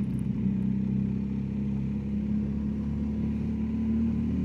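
BMW R1250GSA motorcycle's boxer-twin engine running steadily while cruising.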